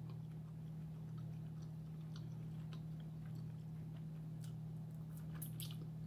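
A person chewing a mouthful of Reuben sandwich close to the microphone: soft, wet mouth clicks, a little busier about five seconds in, over a steady low hum.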